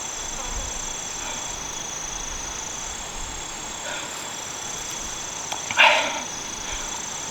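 A single short bark-like animal call, about six seconds in, over a steady high trilling of insects.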